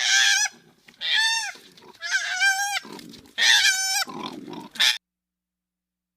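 Pig squealing: four high, wavering squeals about a second apart, with lower grunts between the later ones, stopping about five seconds in.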